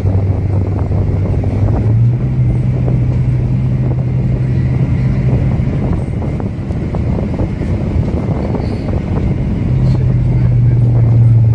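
City bus engine running as the bus drives through town, heard from on board over road noise; the engine note rises about two seconds in, falls back around six seconds and rises again near the end.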